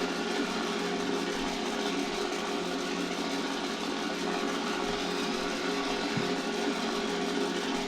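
Steady engine drone from a 1/18 scale Spitfire model running its full flight sequence: the sound of a piston aero engine played through the model's small built-in speaker.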